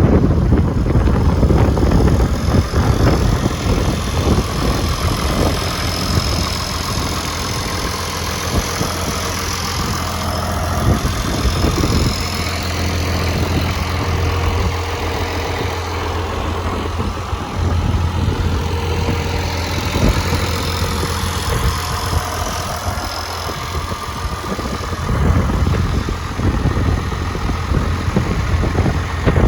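Farmall/IH 966 tractor engine running steadily at idle.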